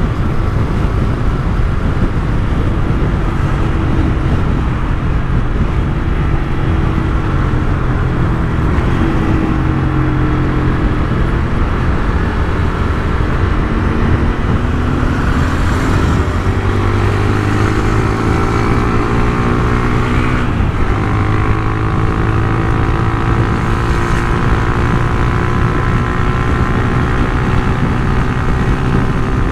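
Honda CG 150 Titan's single-cylinder four-stroke engine running through an aftermarket Turuna exhaust while riding. The engine pitch holds steady, then climbs under acceleration, drops suddenly at a gear change about two-thirds of the way through, and climbs slowly again.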